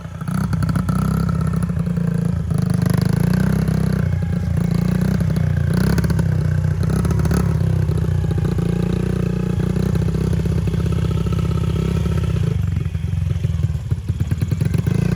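A small motor vehicle's engine running steadily, its low pulsing note holding close to even throughout.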